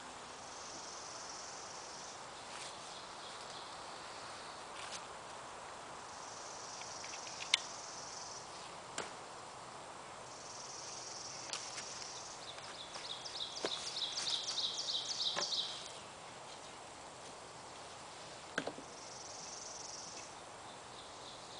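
Outdoor ambience with animal calls: a short high buzz repeats every four to five seconds, and about halfway through comes a rapid trill of roughly four notes a second, growing louder over about three seconds. A few sharp clicks fall in between.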